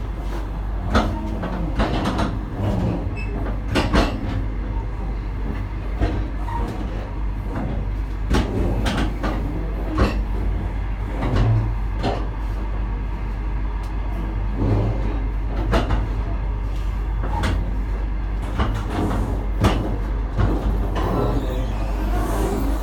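Passenger train coach heard from inside as the train pulls slowly out of a station: a steady low rumble with irregular sharp clacks as the wheels roll over rail joints and switches.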